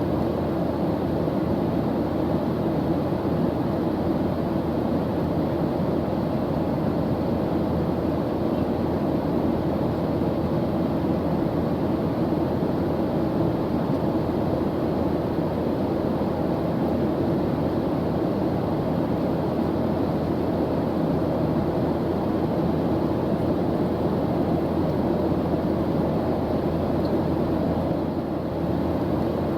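Airplane engine drone in flight: a steady, unchanging low rumble of noise with no breaks.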